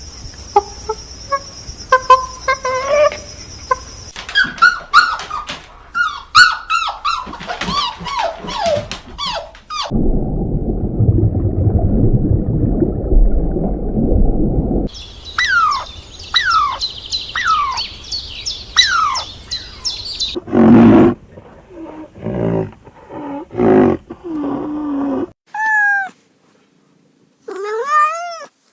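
A series of different animal calls in separate clips, one after another: rapid falling-pitched cries, a low rumbling noise lasting about five seconds in the middle, then more high falling calls and short lower calls.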